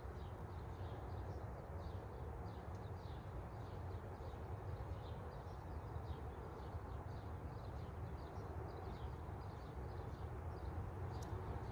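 Small birds chirping over and over in short high calls, a few a second, above a steady low outdoor rumble.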